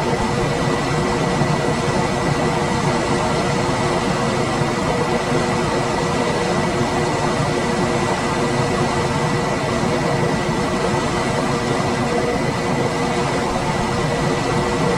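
Room air conditioner running steadily: a constant whoosh of fan air with a low hum and a faint high whine.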